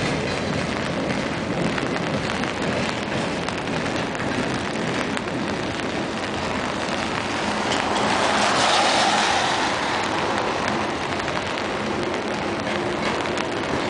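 Freight train rolling past on the rails, mixed with heavy rain falling on an umbrella held over the microphone; the noise swells for a couple of seconds around the middle.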